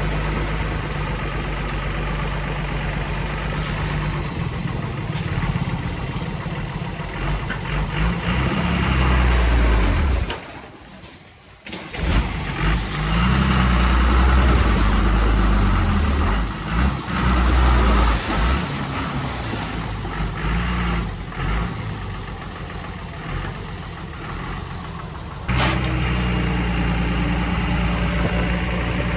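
Heavy diesel engine of earthmoving machinery running, its pitch rising and falling as it works under changing load, with a brief drop in level about ten seconds in and an abrupt change near the end.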